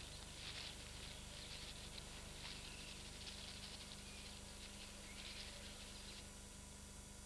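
Faint, scattered high chirping calls of small birds, which stop about six seconds in, over a steady low hum.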